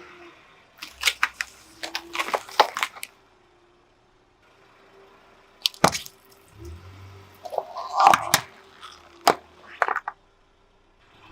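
Objects being crushed under a car tyre: sharp cracks and crunches, mixed with wet squishing, coming in three clusters with short pauses between them.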